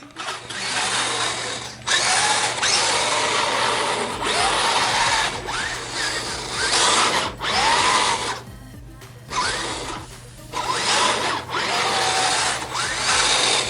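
Redcat Gen8 Scout II RC crawler's electric motor and newly fitted metal transmission gears whining in repeated bursts with short pauses, the pitch rising and falling with the throttle.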